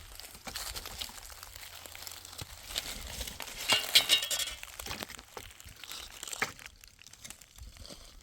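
Rustling and crinkling with scattered small clicks, loudest about four seconds in.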